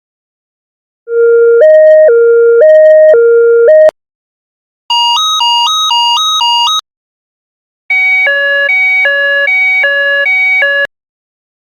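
Three short electronic alarm signals, one after another with brief silences between. The first is a hi-lo two-tone siren switching about twice a second. The second is a higher two-note warble flipping about four times a second. The third is a fuller, chord-like two-note alarm alternating about twice a second.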